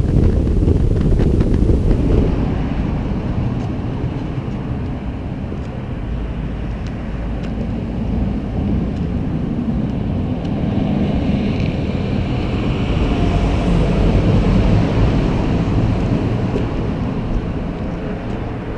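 Wind buffeting the microphone over the steady noise of a motorcycle riding along a road at speed.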